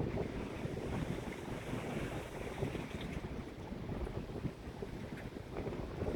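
Wind buffeting the microphone in uneven gusts, over the wash of sea waves.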